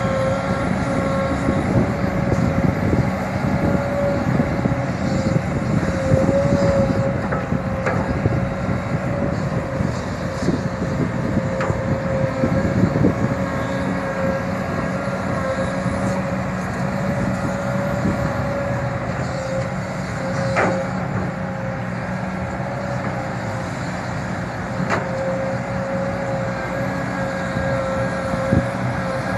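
Kobelco SK140LC crawler excavator working, loading soil into a dump truck: its diesel engine runs steadily under load with a steady high whine over it, swelling louder at times in the first half, with a few sharp knocks.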